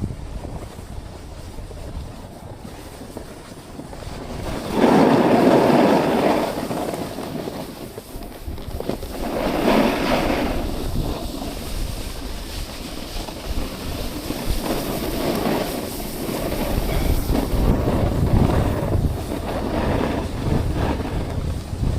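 Wind buffeting the microphone with a steady rumbling hiss, broken by loud rushing surges about five seconds in and again about ten seconds in, with smaller swells later.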